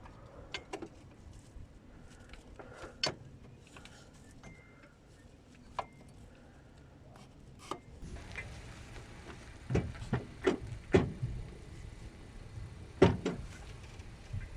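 Irregular knocks, clicks and clanks of hands and tools working on a vehicle, loudest in two clusters in the second half.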